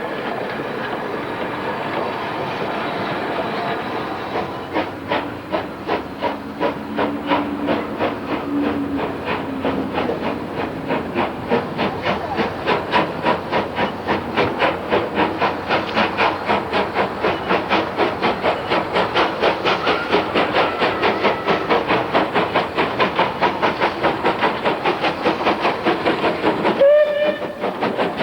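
Rebuilt Bulleid light Pacific steam locomotive Taw Valley getting under way. A steady hiss of steam gives way to its exhaust beats, which quicken as it picks up speed. A short blast on its steam whistle sounds near the end.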